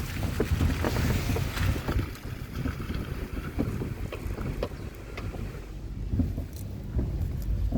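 Mitsubishi Lancer X suspension knocking while the car is driven: irregular short knocks over a steady low rumble of road and wind noise.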